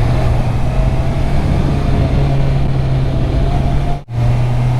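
Stock 2021 Honda CB650R inline-four running at steady revs while riding, with a steady low engine note over a rush of noise. The sound drops out briefly about four seconds in.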